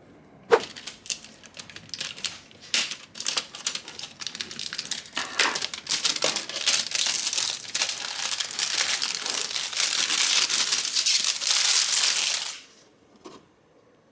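Crinkling of a plastic or paper wrapper being handled: scattered crackles that build into a dense, continuous crinkle, then stop abruptly, followed by one small tap.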